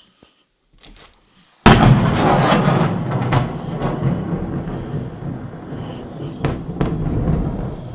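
Close thunderclap: a sudden sharp crack about a second and a half in, followed by a long rumble that slowly fades.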